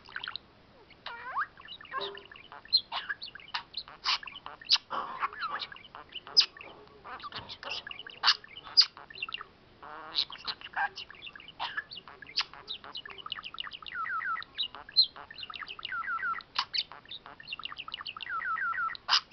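Pet budgerigar warbling: a fast, continuous chatter of chirps, clicks and squeaky notes, with quick runs of repeated short notes in the later part.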